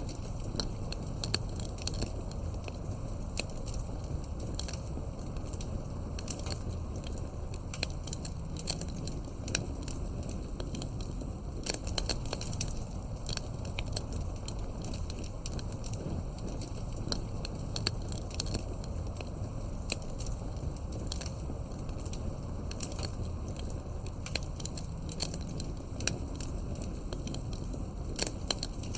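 Campfire burning, with frequent sharp crackles and pops from the wood over a steady low rush.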